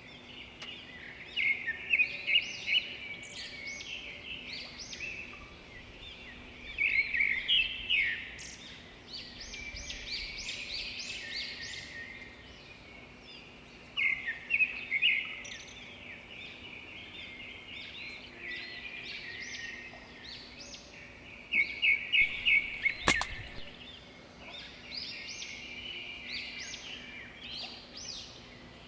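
Many small birds chirping and calling, in loud clusters of rapid chirps with quieter chatter between them. A single sharp click sounds once, about two-thirds of the way through.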